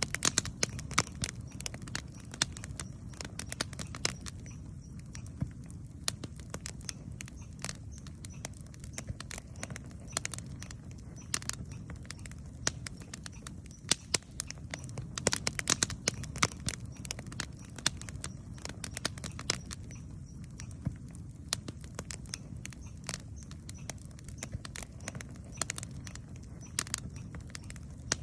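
Wood campfire crackling, with frequent sharp irregular pops over a steady low noise floor; the pops come thickest about halfway through.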